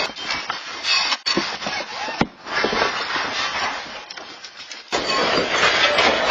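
Shaking in a strong earthquake: a continuous noisy rattling and clattering with a few sharp knocks. The sound changes abruptly about five seconds in.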